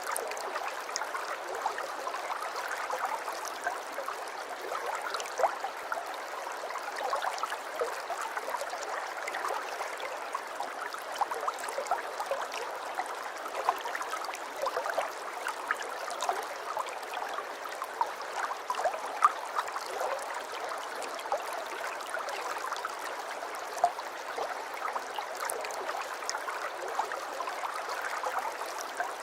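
Aquarium water trickling and bubbling without a break, a steady splashing dotted with many small pops and drips.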